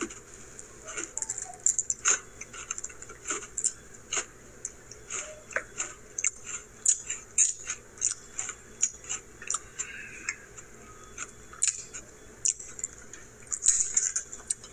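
A person chewing mint chip flavour creme Oreo cookies: irregular short crunches and clicks, several a second.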